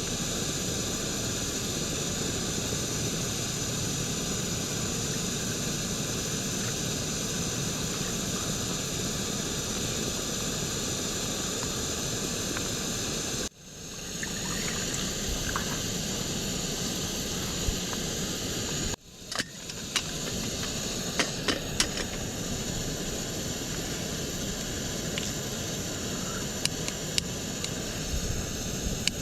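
A steady, loud hiss that cuts out abruptly twice and comes straight back. Scattered sharp clicks sound over it in the second half.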